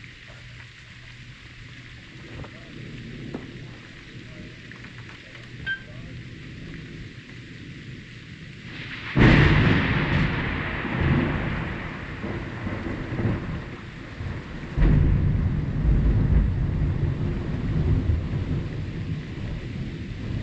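Steady rain falling, then a sharp thunderclap about nine seconds in that rolls on as a long low rumble, and a second heavy rumble of thunder about fifteen seconds in.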